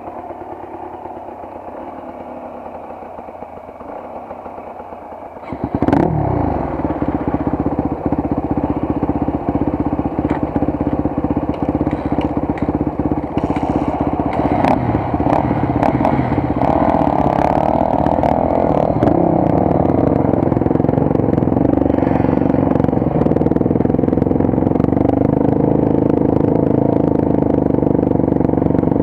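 Motorcycle engine running at low revs, then about five seconds in it is opened up and the bike rides on over a rough gravel forest track. The engine runs steadily and loudly, with stones clattering and knocking underneath.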